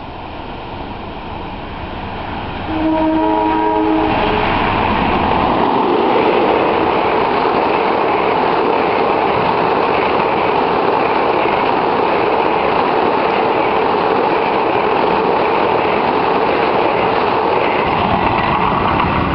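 Mutiara Timur night passenger train sounding one horn blast of just over a second, about three seconds in, as it approaches. Then it passes close by at speed, a loud steady rush of wheels on the rails.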